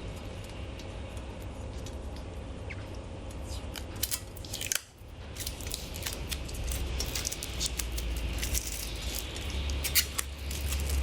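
Protective plastic film being peeled off the metal panels of a secondary-combustion fire pit: irregular crackling and small ticks of film and handled metal, over a steady low rumble.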